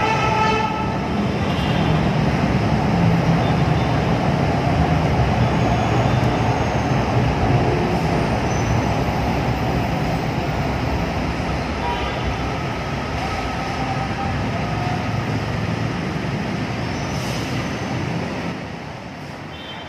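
LRT Line 2 light-rail electric train running along an elevated concrete viaduct and slowing into the station, a steady running noise with faint short whines, mixed with street traffic. It eases off near the end as the train comes to the platform.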